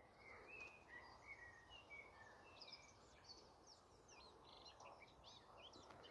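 Faint birdsong over a quiet outdoor hush: a run of short whistled notes at first, then quicker, higher twittering song through the second half.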